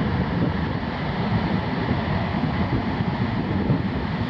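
Steady, rumbling wind-and-ocean noise at a big-wave surf break.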